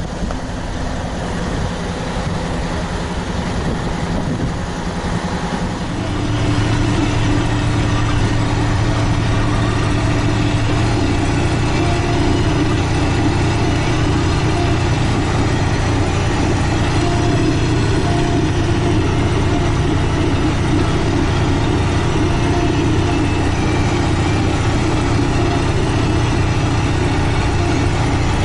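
Heavy wheeled tractor's diesel engine running steadily, with wind buffeting the microphone at first; about six seconds in the engine becomes louder with a steady low hum.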